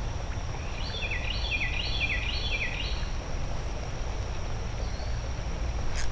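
A songbird sings a short run of about six repeated notes, each sliding downward, over a steady low outdoor rumble and a constant high thin tone. A sharp click comes near the end.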